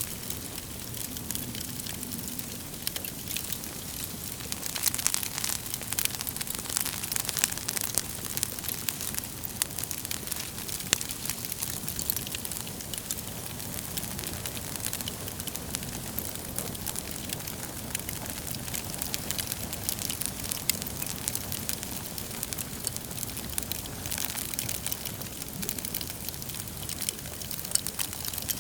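Wood fire burning logs in a fireplace, crackling and popping steadily over a soft hiss, with thicker clusters of pops about five seconds in and again near the end.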